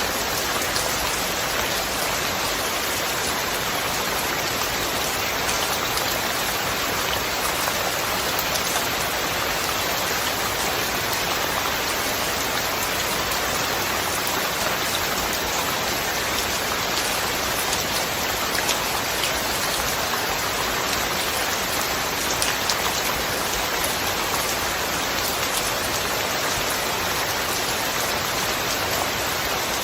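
Steady, heavy rainfall pattering on a surface, an even hiss dotted with individual drop ticks.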